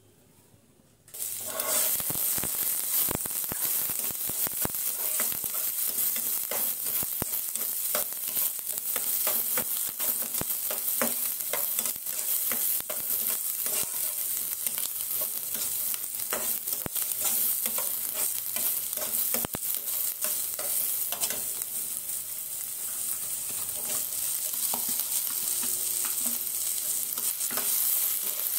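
Chopped onion and green chilli hitting hot oil in a non-stick frying pan about a second in, starting suddenly into a steady sizzle. A spatula stirs and scrapes through the frying vegetables with frequent small clicks against the pan, and chopped tomato is fried along with them.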